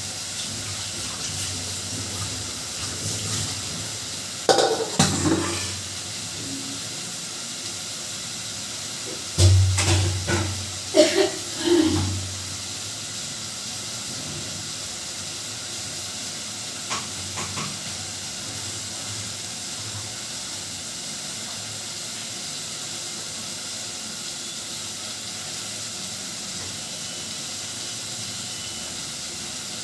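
Potato and aubergine sabzi cooking in a covered pan on the stove: a steady hiss of steam and sizzling. Metal pots and utensils clatter about five seconds in and again from about ten to twelve seconds in.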